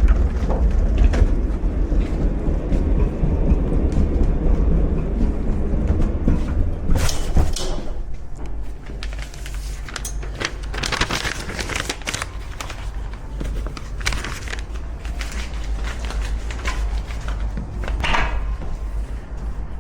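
A low motor hum runs for about seven seconds and cuts off, then a string of metal clanks and rattles follows.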